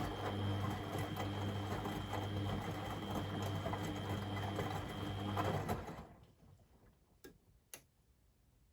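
Beko WMD 46160 washing machine's drum motor running with a steady hum and a high whine as the drum turns in the wash, then stopping suddenly about six seconds in for the rest pause between tumbles. Two short clicks sound during the pause.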